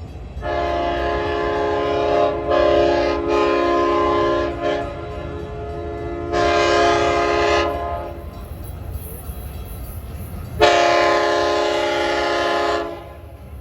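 Diesel passenger train's multi-chime air horn sounding a series of blasts as the express approaches: a long blast with brief breaks, a shorter one, then another long one, over the low rumble of the train.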